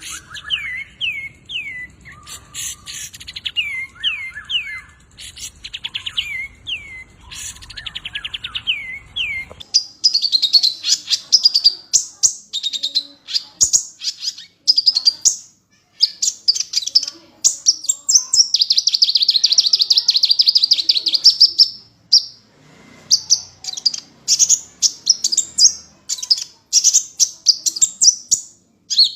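Recorded songbird song played as tutoring audio for shamas. It opens with a bird repeating quick downslurred whistles over a faint hum, then about ten seconds in the recording changes to a different bird's fast, high, chattering trills that go on almost without a break.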